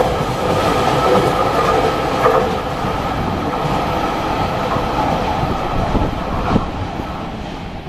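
Freight train of container wagons rolling past at speed, with wheels knocking over rail joints a few times and a faint steady ringing from the wheels. The noise fades near the end as the train draws away.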